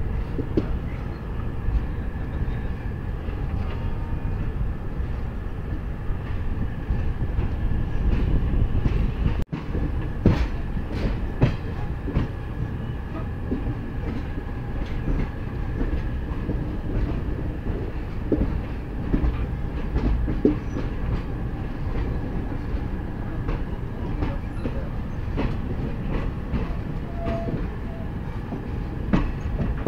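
Track noise of a moving passenger train heard from on board: a steady low rumble of wheels on rail with irregular clicks and knocks as the wheels cross rail joints and points. A momentary break in the sound about a third of the way in.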